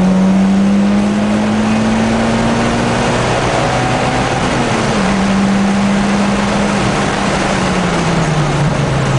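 Mitsubishi Lancer Evolution X's turbocharged four-cylinder engine heard from inside the cabin at full throttle on a track straight, rising in pitch before a gear change about three seconds in. Through the second half the engine note drops in steps as the car brakes for the next corner.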